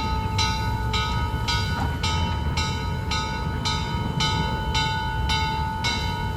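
Steam locomotive No. 1309's bell ringing steadily, struck about twice a second, over the low rumble of the train.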